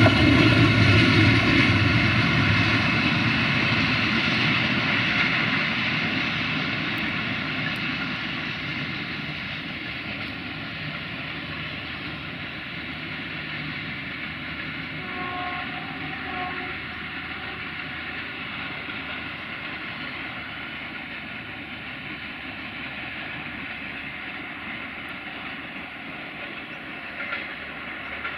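Freight train of open-top wagons rolling away over the rails: the wheel rumble and rail noise are loud at first and fade over about ten seconds, then go on as a steady, fainter rolling sound.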